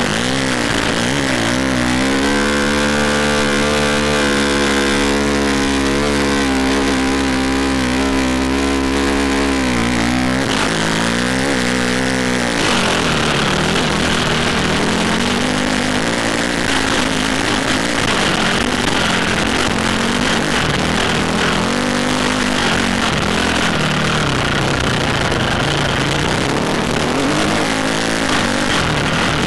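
Dirt bike engine under way, held at a fairly steady pitch for several seconds, then rising and falling again and again with the throttle.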